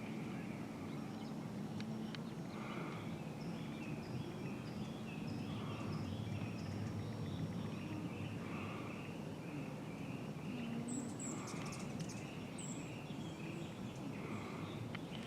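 Birds calling, one repeating a short call every second or two, with a few high chirps about three-quarters of the way through, over a steady low background noise.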